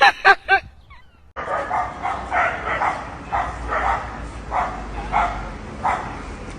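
A few short loud calls right at the start, then after a brief pause a dog gives a string of about eight short high-pitched yips, one every half second to second.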